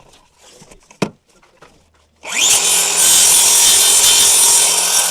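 A few light knocks, then a little over two seconds in a power saw starts up and cuts into wood, running loud and steady.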